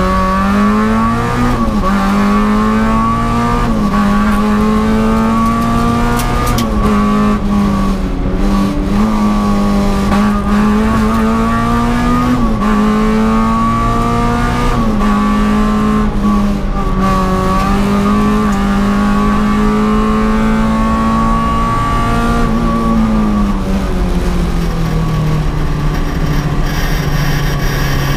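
Peugeot 306 S16 rally car's 2.0-litre 16-valve four-cylinder engine, heard from inside the cabin, held at high revs under hard driving, its pitch dipping briefly at each gear change. Near the end the revs fall to a lower, steadier note.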